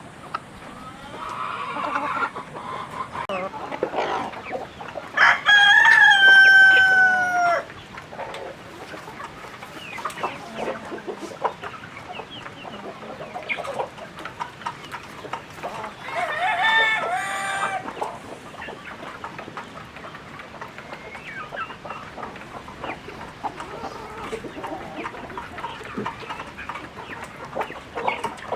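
Chickens clucking, with a rooster crowing loudly about five seconds in and crowing again, less loudly, about sixteen seconds in.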